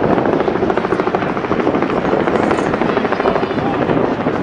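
Airbus A380 airliner's four turbofan engines: a loud, steady jet rumble as it flies its display.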